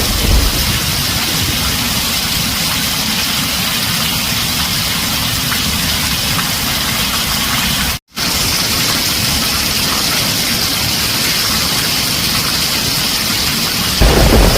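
Heavy rain drumming steadily on a tin roof, a dense even hiss with no thunder. The sound cuts out completely for an instant about halfway through, then resumes unchanged.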